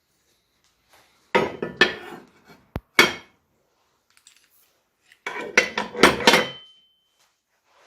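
Loose metal parts clinking and clattering as they are handled and set down, in two bursts of quick knocks with a pair of sharp clicks between them.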